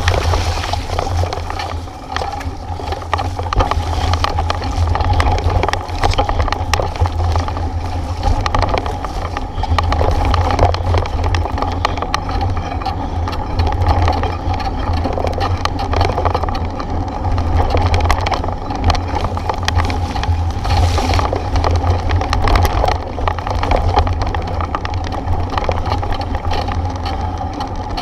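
Steady wind rumble on the microphone of a moving bike, with constant irregular rattling and knocking from the bike and mount jolting over a rough road.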